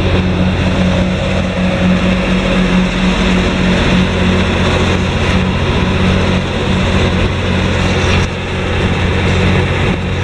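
Scania R420 truck's diesel engine running steadily with an even, constant hum.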